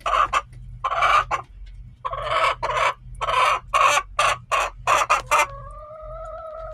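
Hens clucking in a quick run of short calls, about three a second, then one long, steady drawn-out note near the end.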